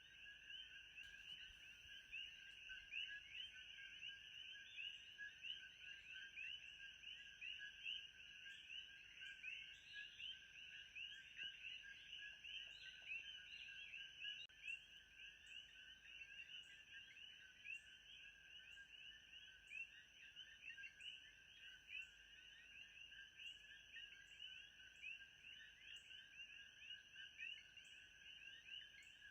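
Faint, dense chorus of many high chirping calls, with a steady high tone under it and a faint tick about every two-thirds of a second.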